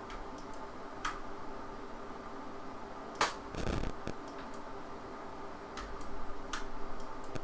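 Computer mouse clicking: about ten short, sharp clicks at irregular intervals over a faint steady hum, with one duller, longer rustle a little after three seconds in.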